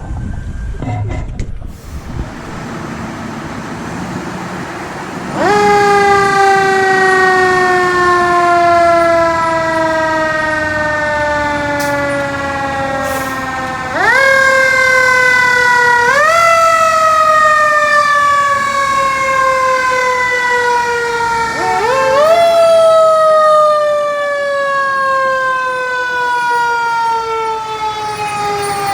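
Fire truck siren starting about five seconds in: each time it winds up quickly, then falls slowly in pitch in a long wail, and it is wound up again three more times.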